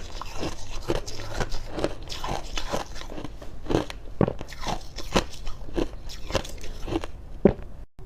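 Freezer frost being bitten and chewed close to the microphone: dry crunches, about two a second, stopping just before the end.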